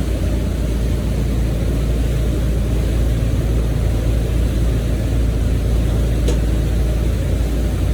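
Motorboat's engine running steadily underway, a loud, even low rumble.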